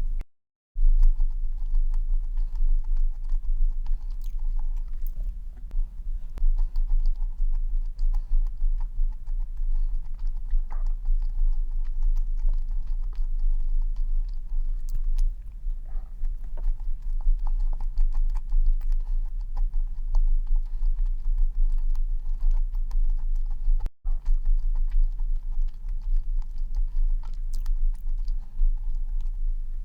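A person chewing and biting stollen up close to the microphone: small, irregular mouth clicks and soft crackles.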